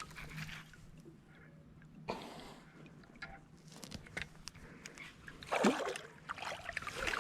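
Quiet splashing and dripping water beside a kayak, with scattered light knocks and a short splash about two seconds in, as a small bass is brought out of the water.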